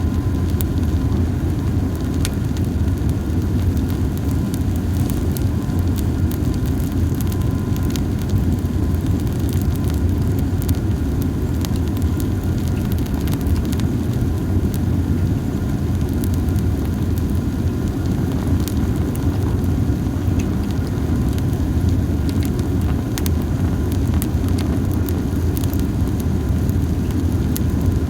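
Campfire of dried hinoki cypress cones burning, with a few scattered faint crackles over a steady low rumble. The cones burn poorly and crackle only a little.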